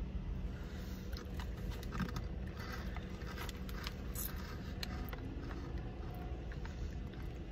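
Chewing and crunching of freeze-dried gummy candy: scattered faint crisp crunches over a low steady hum.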